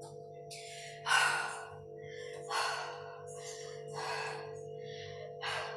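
A woman breathing hard, catching her breath after a weights set: about four deep, airy breaths roughly a second and a half apart, over a faint steady hum.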